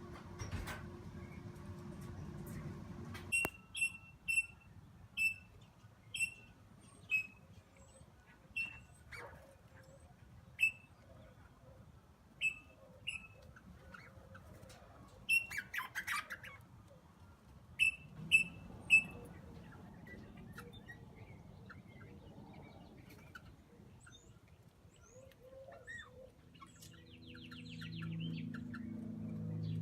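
Rosella parrots calling: a run of short, high piping notes, about one or two a second, starting a few seconds in, with one louder, harsher call midway. Near the end a low, steady rumble comes up underneath.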